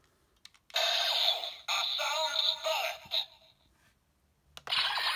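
Bandai DX Assault Wolf Progrise Key toy: a few plastic clicks, then electronic sound effects and a synthesized voice and music from its small built-in speaker, stopping briefly around the three-second mark and starting again after another click near the end.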